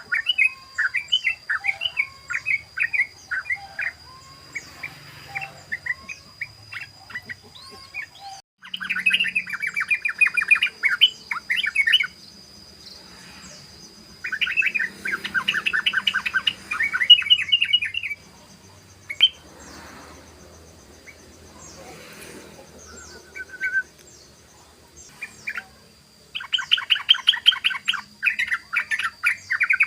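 Yellow-vented bulbul (trucukan) singing its fast bubbling chatter in four bursts of rapid notes, separated by pauses: near the start, around a third of the way in, around the middle, and near the end.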